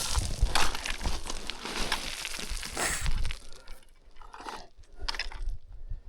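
Footsteps crunching on loose stony ground, dense and loud for about the first three seconds, then fainter, scattered crunches.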